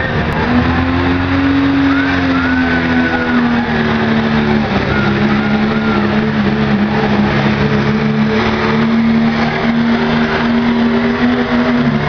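Pulling truck's engine running at high revs under heavy load. Its pitch rises at the start, dips slightly about five seconds in, then holds steady.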